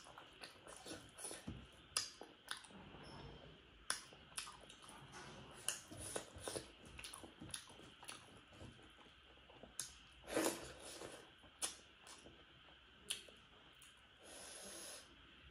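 Close-miked chewing of fatty pork, with frequent short wet mouth clicks and smacks at an irregular pace and one louder smack about ten seconds in.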